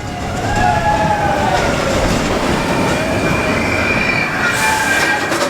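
Roller coaster train running along its steel track: a loud, steady rumble with high, wavering wheel squeals over it.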